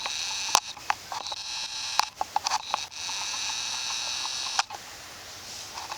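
Insects trilling in a high, steady buzz that starts and stops in long stretches, with scattered sharp clicks and crackles over it.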